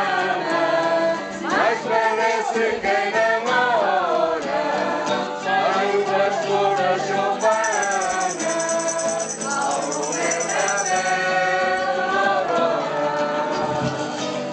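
A group of voices singing a song over a steady instrumental accompaniment.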